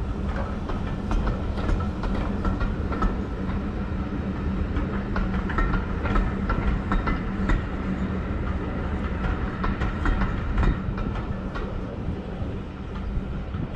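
Train hauled by a Class 73 electro-diesel and a Class 33 diesel locomotive rolling into a station: steady low engine running with a steady high tone, and frequent clicks of the wheels over the rail joints.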